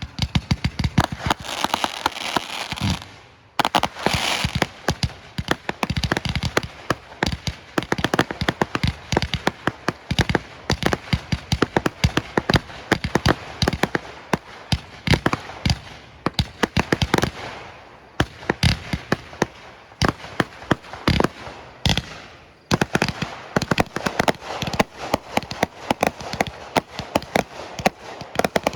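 Fireworks going off in rapid, continuous volleys, many sharp bangs and crackles a second, with brief lulls about three, eighteen and twenty-two seconds in.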